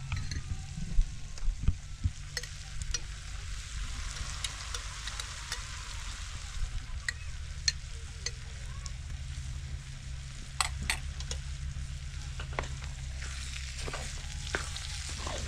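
Diced potatoes frying in oil in a metal pan: a steady sizzle with scattered sharp pops and clicks, and a spatula scraping and stirring the pan now and then. A low steady hum runs underneath.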